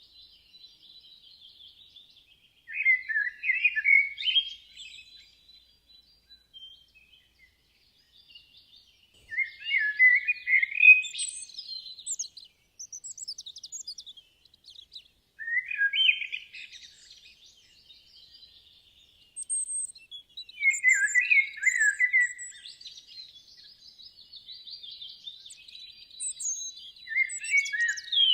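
Songbirds singing: a loud warbling phrase of two to three seconds comes five times, with fainter high twittering and chirps from other birds in between.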